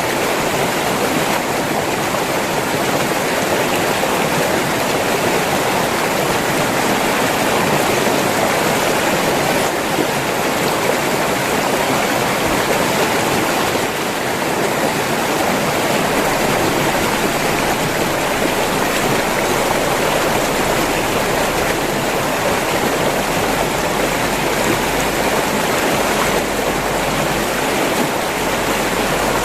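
A river's water rushing and splashing over rocks, a dense, steady sound.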